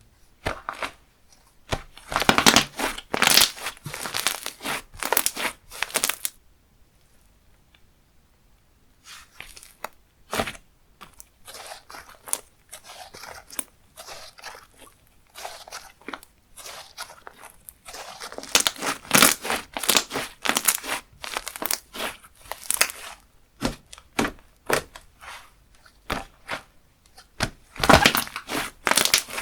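Hands squishing, stretching and poking slime, making sticky crackling and popping sounds in bursts, with a pause of about three seconds a quarter of the way through.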